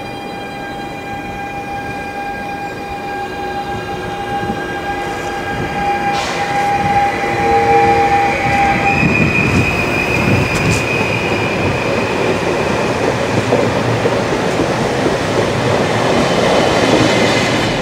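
Stadler Flirt 3 electric multiple unit moving along the platform, its traction equipment whining in several steady tones over rolling noise. The noise grows louder as the train comes closer, and one of the tones cuts out about halfway through.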